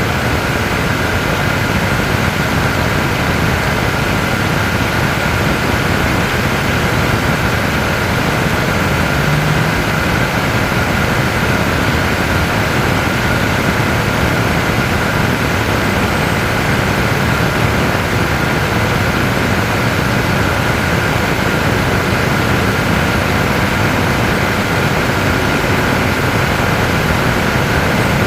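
Boeing 787-9 Dreamliner on pushback: a steady jet rush with a constant whine held through.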